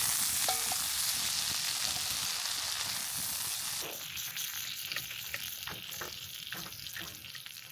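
Food frying in butter, a loud steady sizzle that eases after about four seconds into quieter sizzling with scattered pops and crackles.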